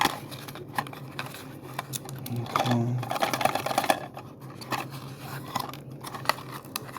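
Small plastic toy-car accessory parts clicking and rattling as they are handled and unpacked, with a stretch of rustling about three seconds in. A steady low hum runs underneath.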